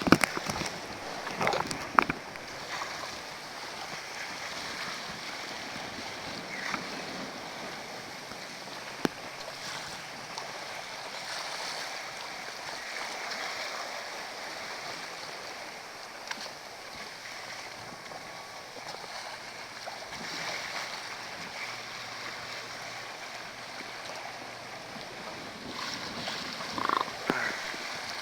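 Water rushing and splashing along the hull of a sailboat under way, a steady hiss, with a few sharp knocks in the first two seconds and again near the end.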